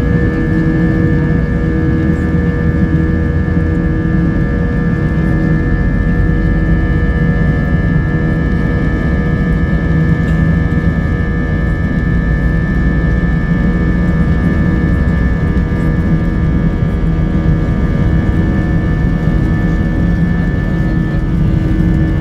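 Airbus A320's IAE V2500 jet engines running, heard from inside the passenger cabin: a steady noise with a high whine and lower humming tones.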